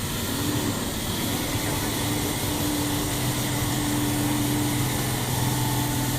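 Dump truck engine running steadily, its low hum firming up about three seconds in.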